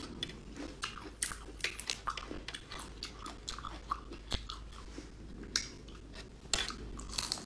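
Close-up mouth sounds of someone biting and chewing raw marinated shrimp: a run of irregular short, wet crunches and clicks.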